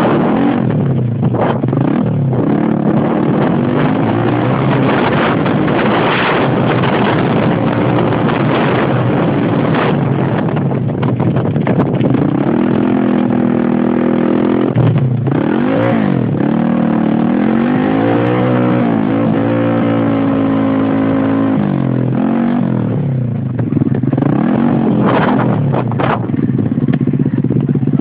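Xmoto XB-32 125cc four-stroke pit bike engine, ridden off-road, its revs rising and falling over and over as the throttle is worked and gears change. Gusts of wind noise on the helmet-mounted microphone come and go over the engine.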